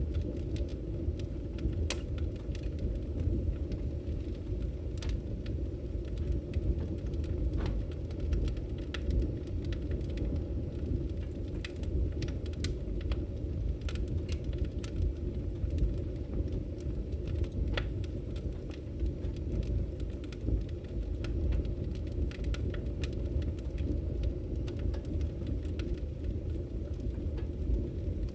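Wood fire burning in a fireplace: a steady low rumble of flames with scattered sharp crackles and pops at irregular intervals.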